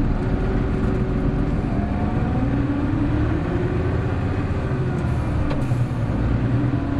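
Hino Blue Ribbon City Hybrid bus (BJG-HU8JLFP) under way: a steady diesel drone whose pitch rises about two seconds in and eases off a little past the middle, with a faint rising whine about two seconds in.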